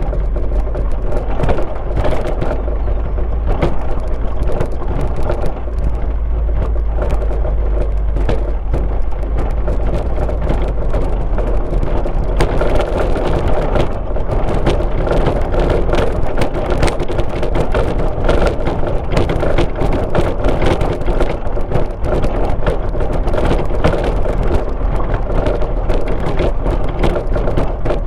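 Car driving along a road: steady engine and tyre noise with a constant run of small clicks and rattles, getting a little fuller about halfway through.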